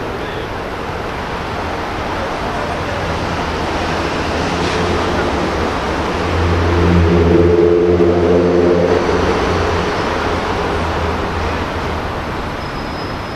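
Steady traffic noise with a motor vehicle's engine hum that swells about halfway through and fades again as it passes.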